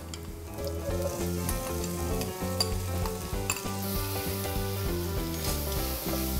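Diced yellow bell pepper and onion sizzling in hot oil in a stainless saucepan, stirred with a wooden spatula that clicks against the pot now and then. Background music plays underneath.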